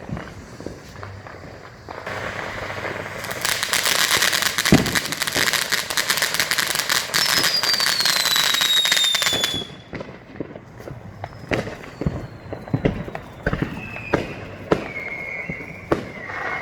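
Neighbourhood fireworks going off. A dense crackling barrage with a sharp bang builds for several seconds, a falling whistle runs over it, and then it cuts off suddenly. Scattered bangs and pops follow, with a couple more downward whistles.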